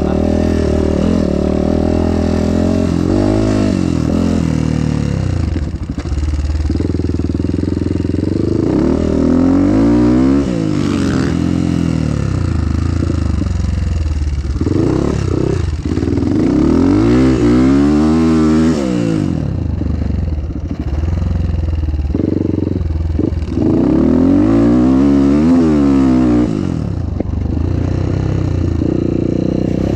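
Off-road motorcycle engine on a motocross track, revving up and backing off again and again in long swells of rising and falling pitch. A steadier low engine hum runs underneath.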